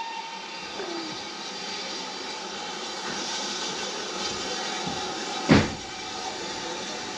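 Steam train running, a steady rail noise with one loud thump about five and a half seconds in.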